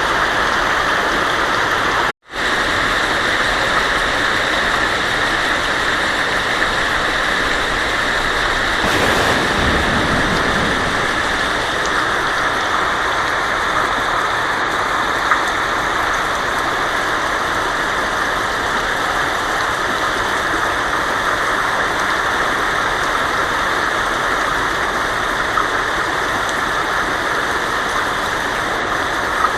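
Heavy rain falling steadily on a tin roof, a dense even hiss. A short low rumble of thunder comes about nine seconds in, and the sound cuts out for an instant about two seconds in.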